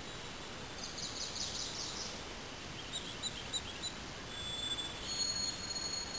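Wild songbirds calling over a steady background hiss: a fast high trill about a second in, a quick run of short chirps around three seconds, then high held whistles near the end.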